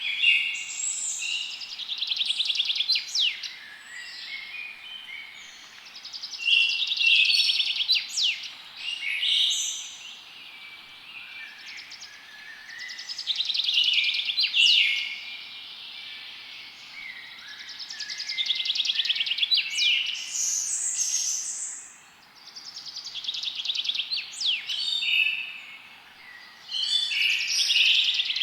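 Forest songbirds singing: phrases of rapid trills and chirps with quick sharp sweeps, recurring every five to six seconds over a faint steady hiss.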